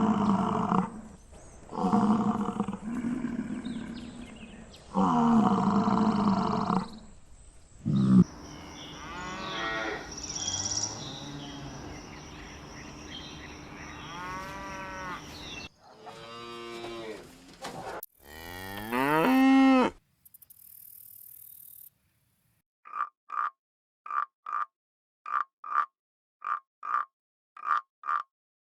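Cow mooing, about four long low calls in the first eight seconds. Other animal calls that rise and fall in pitch follow. After a short pause comes a string of short, evenly spaced croaks, about one and a half a second.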